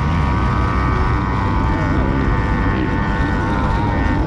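Small kids' dirt bike engine running at a steady speed while being ridden, its pitch holding level throughout.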